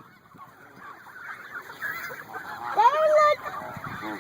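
Geese honking and gabbling, the calls growing louder, with one loud honk about three seconds in.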